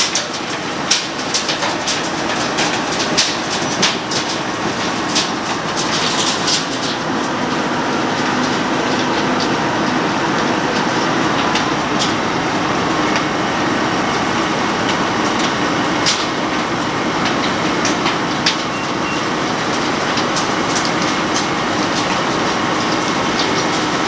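Road planer (cold milling machine) running steadily, with many sharp clicks and rattles over the first several seconds, then a steadier noise with only occasional clicks.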